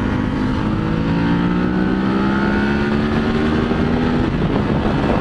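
Motorcycle engine pulling under throttle at highway speed, its pitch climbing steadily for about four seconds before the throttle is rolled off, over steady wind and road noise.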